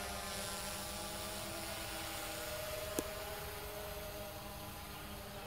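DJI Phantom 2 Vision quadcopter in flight, its four motors and propellers making a steady whirring hum of several held tones that grows a little fainter near the end. A single sharp click about three seconds in.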